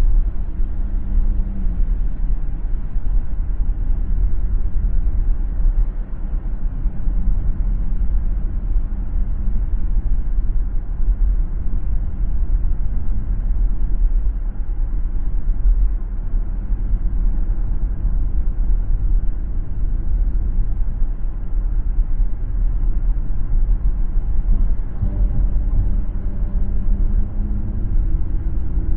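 Car driving on a city road: a steady low rumble of tyres and engine, with a faint humming tone near the start and again near the end.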